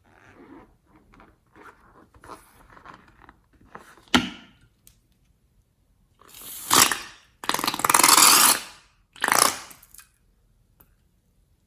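Slime being handled: faint squishing and rustling, a sharp pop about four seconds in, then three loud crackling, squelching bursts of about a second each.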